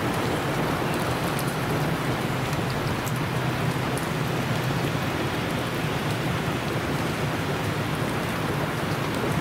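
Heavy rain pouring down steadily, an even, dense hiss of downpour with faint scattered drop ticks.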